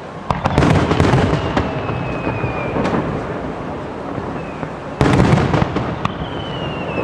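Fireworks display: aerial shells bursting in a dense cluster of booms and crackling reports just after the start, then a second loud burst about five seconds in. A thin high whistle glides slowly downward between the bursts.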